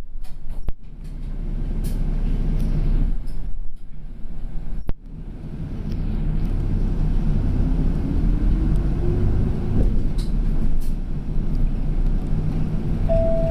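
Inside a route bus: the diesel engine runs, with a sharp knock twice, then its pitch rises steadily over a few seconds as the bus pulls away. A two-note electronic chime sounds near the end.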